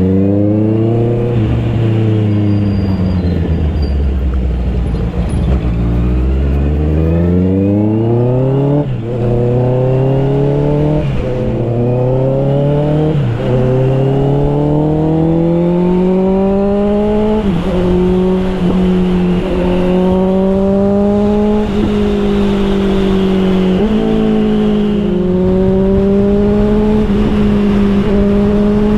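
Honda CBR650R inline-four through an Austin Racing GP1R aftermarket exhaust, on the move. The engine note eases down in the first few seconds, then climbs hard with a sudden dip at each of several upshifts, settling into a steady, slowly rising cruise in the last few seconds.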